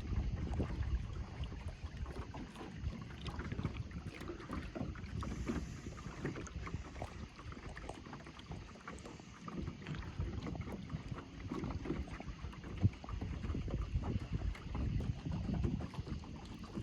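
Wind buffeting the microphone over water lapping against a jon boat, with small scattered knocks and clicks from the boat.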